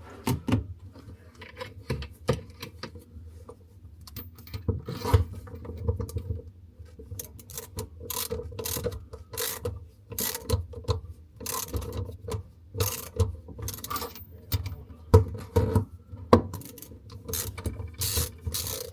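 Ratchet spanner clicking in repeated short strokes as the fixing nut of a basin mixer tap is tightened from under the basin. The clicking is irregular and comes thicker in the second half.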